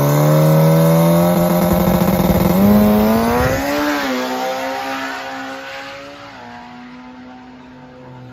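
Drag-race car engine running hard at high revs on a quarter-mile pass. Its pitch holds, climbs and drops back, while the sound fades steadily as the car pulls away.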